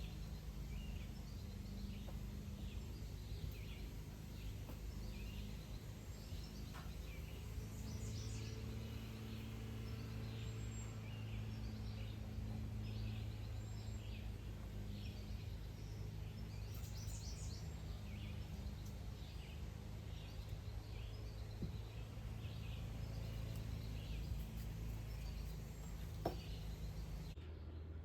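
Small birds chirping and calling repeatedly over a steady low hum. The background changes abruptly near the end.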